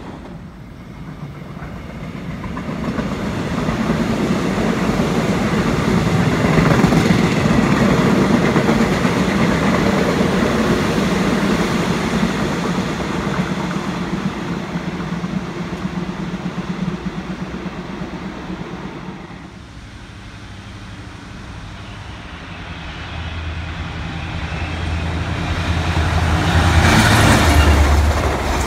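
An electric commuter train passes on the main line, wheels clattering over the rails; the sound swells and then fades away a little after two-thirds of the way through. A second, locomotive-hauled passenger train then approaches with a low steady drone and passes loudest near the end.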